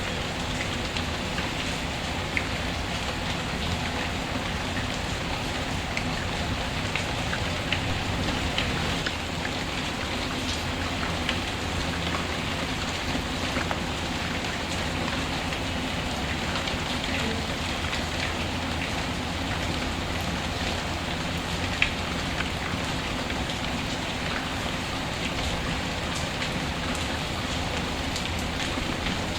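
Steady rain falling on a surface, with a wood fire crackling: scattered small pops throughout and one sharper pop about three-quarters of the way through.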